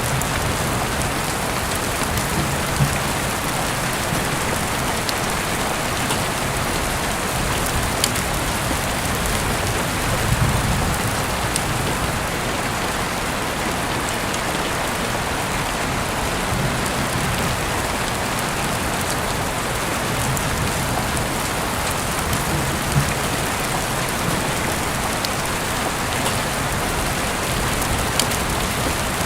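Heavy rain falling steadily, with scattered sharp drop ticks and now and then a short low rumble.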